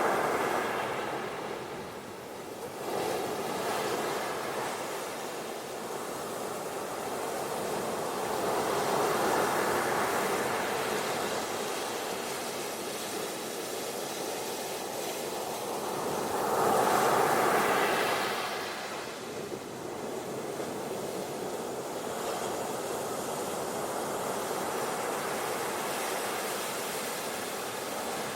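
Ocean waves washing onto a beach in a steady hiss, swelling and breaking louder every several seconds, most strongly about seventeen seconds in.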